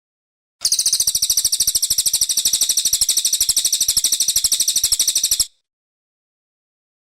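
Brown cililin songbird singing one very fast, even, high-pitched trill that lasts about five seconds and starts and stops abruptly, as played on a bird-song training recording.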